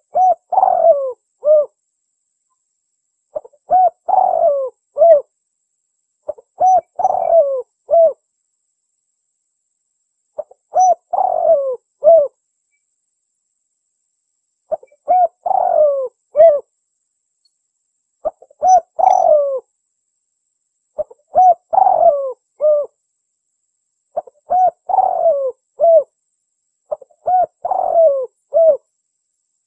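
Spotted dove (tekukur) cooing: a repeated phrase of a few mellow notes, given nine times about every three seconds with clean silence between, the song of a contest bird used as a lure call.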